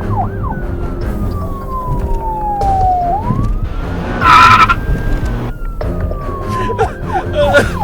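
Police-style siren. It yelps in quick falling sweeps at the start and again near the end, and between them wails in slow sweeps: down, up, then down again. A short, loud blare about halfway through is the loudest sound.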